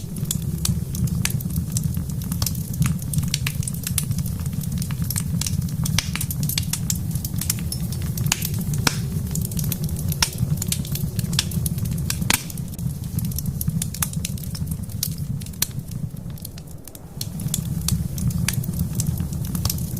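Wood fire crackling in a fireplace: irregular sharp pops and snaps of burning logs, several a second, with a louder pop about twelve seconds in, over a low steady rumble that eases briefly near the end and comes back.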